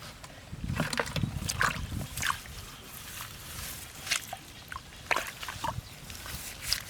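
Shallow water sloshing and splashing in short irregular bursts, with scattered brief clicks and chirps.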